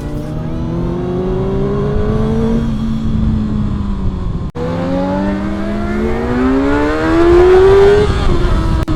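Kawasaki ZX-6R's inline-four engine accelerating, its pitch rising steadily, dropping at an upshift just under three seconds in, then climbing again to its loudest near the end before another upshift. The sound cuts out for an instant about halfway through.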